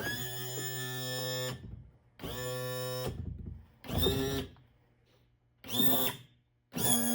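Electric power trim/tilt motor of a Tohatsu outboard whining in a series of short bursts, about five or six, as the outboard is lowered onto its support sticks. The first burst is the longest, at about a second and a half. The later ones are shorter and sag slightly in pitch.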